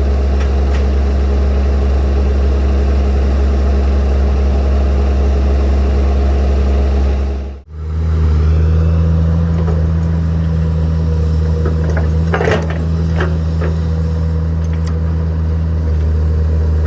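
Heavy earth-moving machine engine running steadily with a low drone. About halfway through, the sound breaks off and resumes at a slightly different pitch. A few short metallic knocks come a few seconds later.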